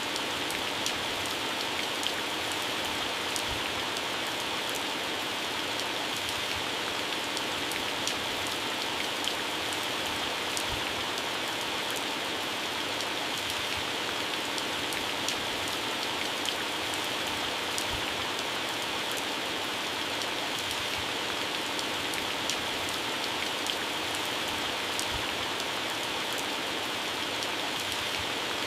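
Heavy rain falling steadily on plants, leaves and grass, an even hiss with many sharp drop impacts scattered through it.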